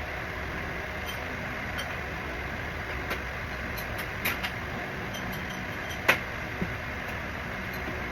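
Steady background hum with a few scattered short clicks, the loudest about six seconds in.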